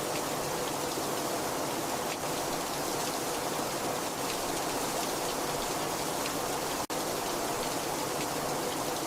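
Very heavy rain falling steadily, a dense even hiss with scattered drop ticks. The sound cuts out for an instant about seven seconds in.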